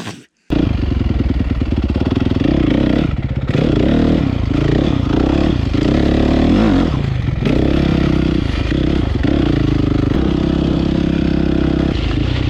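Honda CRF450 single-cylinder four-stroke engine with an HGS exhaust, cutting in suddenly about half a second in and running loudly. It is revved up and down a few times in the middle, then holds a steady note.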